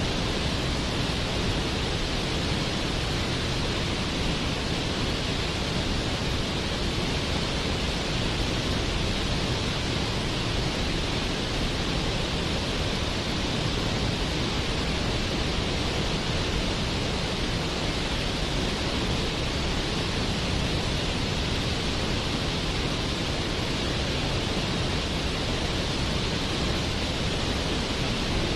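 Waterfall: water falling and splashing, a steady, unbroken rush.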